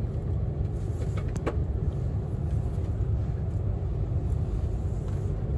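Steady low rumble of a moving passenger train, heard from inside the carriage, with a couple of faint clicks about a second and a half in.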